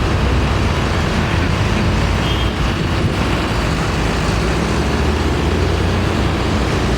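Tractor engines running steadily as tractors drive past, a low engine hum under a constant haze of noise.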